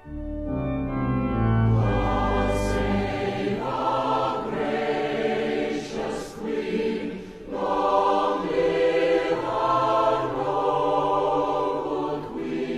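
Choral music: a choir singing sustained chords over a low bass note at the start.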